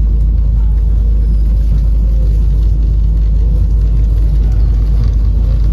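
Steady rumble and running noise of the Vande Bharat Express in motion, heard from inside the coach, deep and even throughout.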